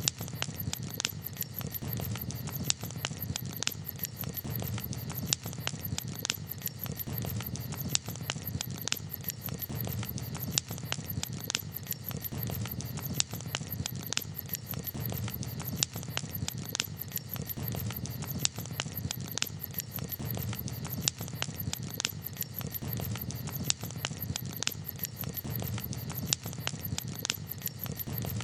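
Campfire crackling: frequent sharp pops and snaps of burning wood at irregular intervals over a steady low rumble.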